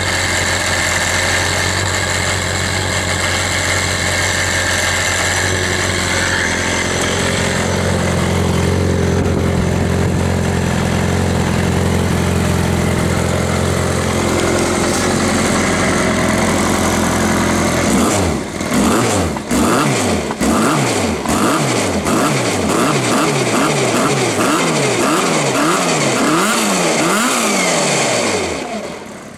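Car engine idling steadily, then revved in a quick series of throttle blips, each rising and falling back, about one a second, for the last ten seconds.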